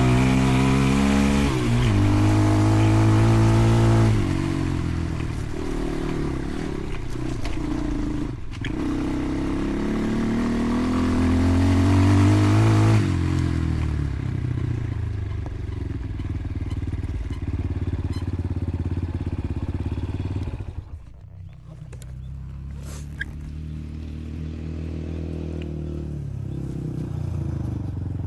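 Dirt bike engine revving hard under load, its pitch climbing and dropping with gear changes for the first dozen seconds, then easing off to a quieter, lower running, with a brief drop in level about three-quarters of the way through.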